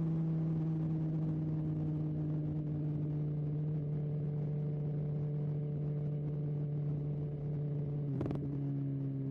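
BMW S1000XR motorcycle's inline-four engine running under way at steady revs, easing slightly lower. About eight seconds in there is a brief clack and the engine note steps down, as with an upshift.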